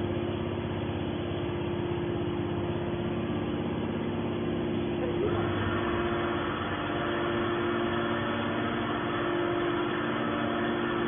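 Hydraulic scrap metal baler running, a steady machine hum with a constant drone. About five seconds in, a harsher, brighter layer joins and stays.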